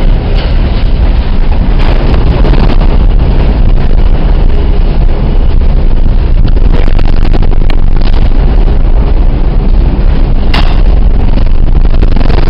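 Rough sea heard from aboard a cargo ship: a loud, steady rush of wind and heavy sea, deepest in the low end, with a short sharper hit about ten and a half seconds in.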